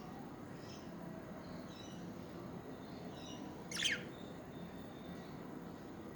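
Budgerigars chirping softly, with one much louder sharp squawk a little under four seconds in.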